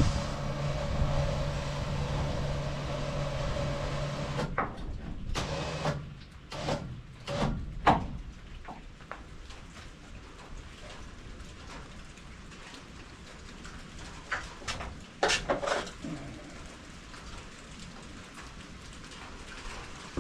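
MechMaxx SM32 sawmill's engine running steadily, shutting off about four and a half seconds in. After it stops come scattered clunks and knocks, a cluster shortly after the shutdown and another about ten seconds later.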